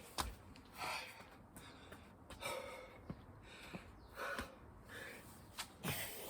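Heavy, gasping breaths of a man exerting himself, one every second and a half or so, with a few short thuds between them.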